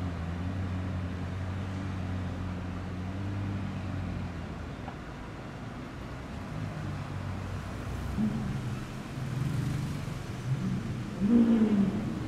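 McLaren supercar's twin-turbo V8 idling steadily, then running quieter as it moves off, with a few short revs rising and falling in pitch over the last few seconds, the loudest just before the end.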